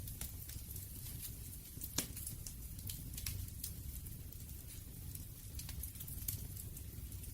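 Campfire burning: wood crackling and popping in irregular sharp snaps over a low, steady rumble of flame, with one louder pop about two seconds in.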